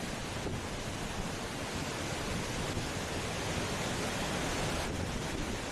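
Steady rushing noise of strong wind and water running over the ground.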